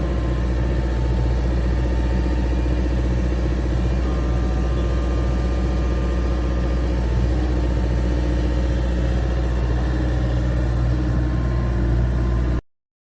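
A vehicle engine running steadily at idle, a deep even rumble that cuts off suddenly near the end.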